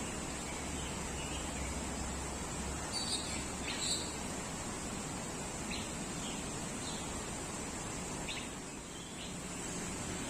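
Birds giving short chirps every second or two over a steady high-pitched hiss.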